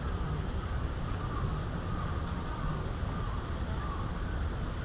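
A steady low rumble, with a few faint, very high, thin bird calls about half a second in and again at a second and a half.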